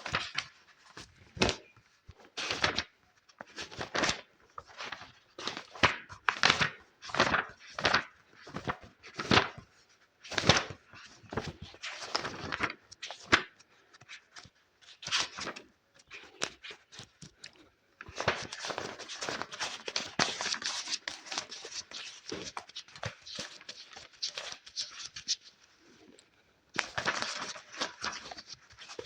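Close-miked ASMR scratching and rustling strokes: about two dozen separate short, crisp strokes, then from about eighteen seconds in a continuous dense scratching rustle for about eight seconds, starting again shortly before the end.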